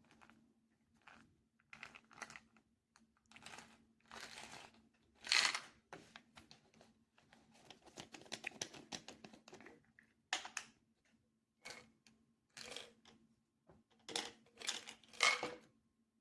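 Irregular rustling, crinkling and clicking of small objects being handled, with a few louder scrapes and a faint steady hum underneath.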